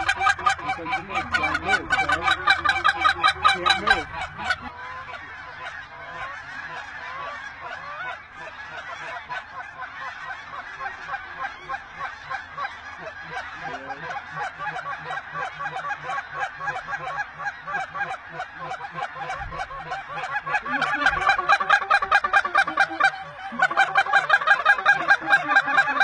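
A large flock of geese calling, many rapid honks and yelps overlapping at once, louder at the start and again over the last several seconds, softer in between.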